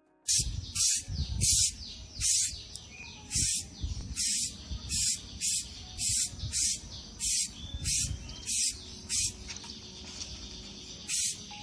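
Aerosol spray paint can hissing in short bursts, about two a second, with a pause of about two seconds near the end, as a helmet is misted with matte black paint.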